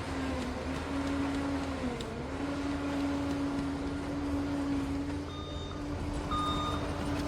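Liebherr PR 746 crawler dozer's diesel engine running under load with a steady whine and rumble, the pitch dipping briefly about two seconds in. Near the end its reversing alarm beeps twice.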